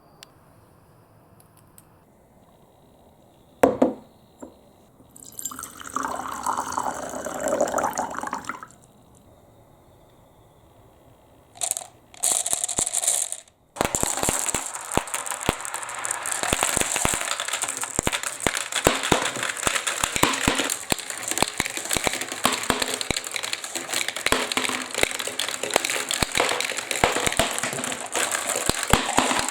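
Water pouring and running down a plastic toy-block marble-run course. There is a single knock about four seconds in and two brief pours, then from about halfway a continuous trickling rush full of rapid small clicks and splashes.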